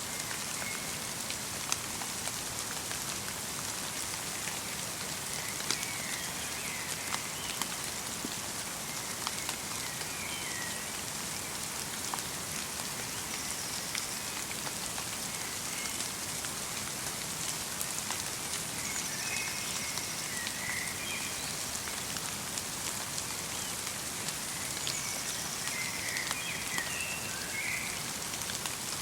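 Light rain mixed with snow falling on a forest, a steady patter with scattered sharp drop ticks. Small birds give short warbling calls every few seconds, most busily near the end.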